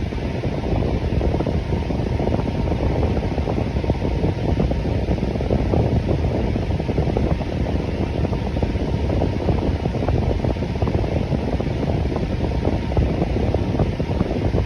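Electric fan running steadily: an even whooshing noise weighted to the low end, with no changes.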